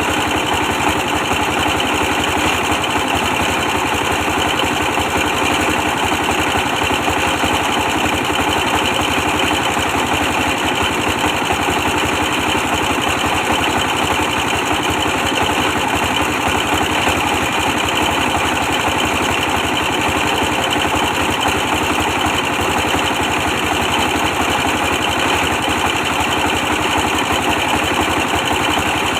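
Old 24 hp diesel engine running steadily with a fast, even firing beat, powering a brick press machine.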